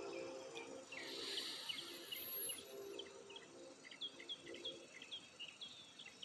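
Small birds chirping outdoors with many short, quick calls repeating several times a second. A faint low hum sits under the first half.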